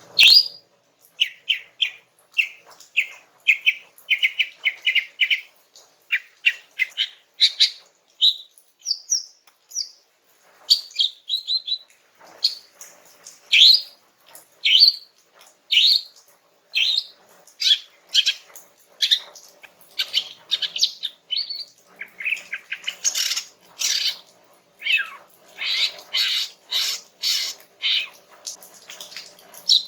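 Female cucak ijo (green leafbird) singing in a relaxed way: a steady stream of short high chirps and whistled notes, some in quick runs, growing busier over the last several seconds. A call recording used to lure males into answering.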